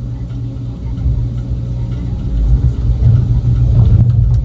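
Heavy equipment engine running under load, a steady low drone that grows a little louder in the second half.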